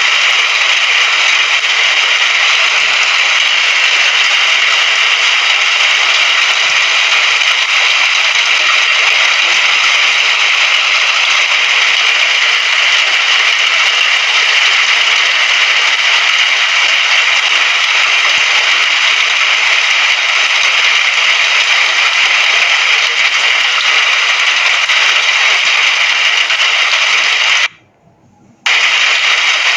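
Steady hiss of falling rain, a dense even patter, strongest in the upper-middle range. It cuts out for under a second near the end, then resumes.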